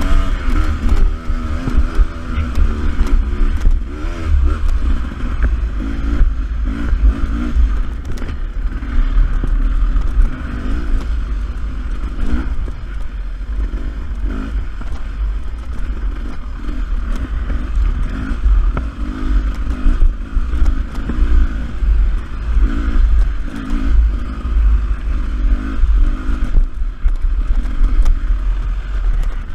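Beta 300RR two-stroke enduro motorcycle being ridden off-road, its engine revs rising and falling continually. A heavy low rumble sits under it throughout.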